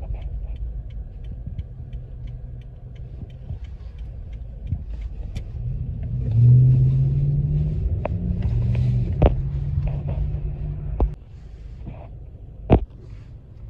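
Road traffic rumbling, with a heavy vehicle's engine drone swelling about six seconds in and dropping away sharply around eleven seconds. Two sharp knocks stand out, one in the middle and one near the end.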